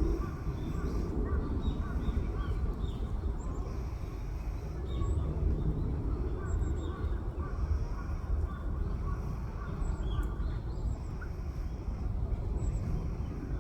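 A steady low rumble, with scattered short, high bird calls and chirps over it throughout.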